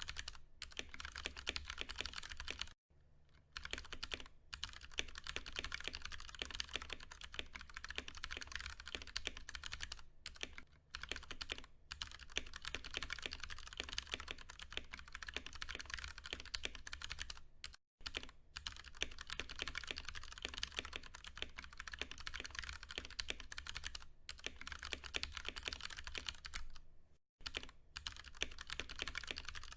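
Fast, steady typing on a Ducky One 2 Mini mechanical keyboard with Cherry MX Brown switches, tactile but not clicky. Dense keystrokes with a few brief pauses.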